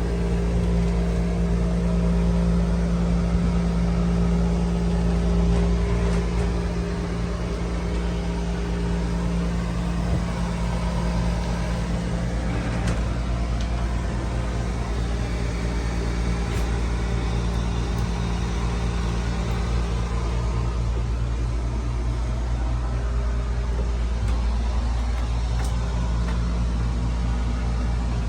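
A steady engine drone: a low rumble with a constant hum, a little louder for the first several seconds, then even.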